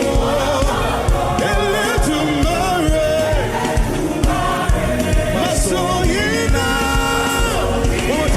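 Gospel worship music: voices singing a chanted praise line over a steady drum beat.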